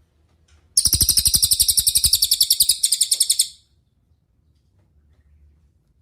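Cililin bird singing one rapid, high trill of quickly repeated notes, starting about a second in and lasting nearly three seconds.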